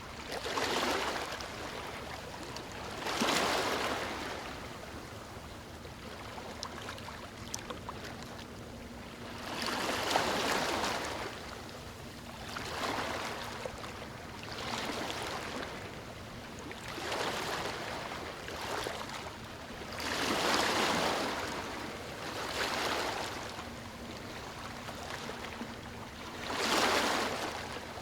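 Ocean waves breaking and washing up on a beach: surges of surf every two to three seconds over a steady hiss of water.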